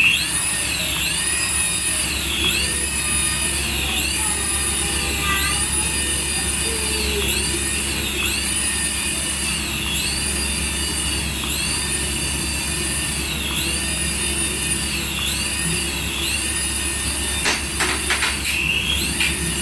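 Battery-powered toy's electronic sound effect playing on a loop: a high, siren-like tone that rises, holds and falls, repeating about every second and a half.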